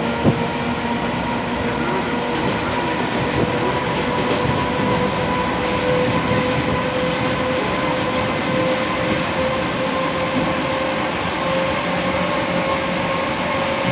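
Commuter train running at speed, heard from inside the carriage: a steady rumble with a steady whine over it, and one sharp knock just after the start.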